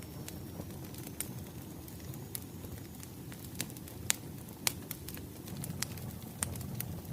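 Wood fire burning: a steady low rumble with irregular sharp crackles and pops of burning firewood.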